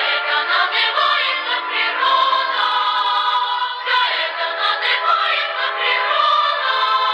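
A song sung by a choir in high voices, the melody moving continuously.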